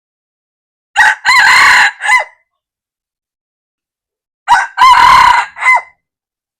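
Red junglefowl rooster crowing twice, each crow a short, clipped three-part call of about a second and a half.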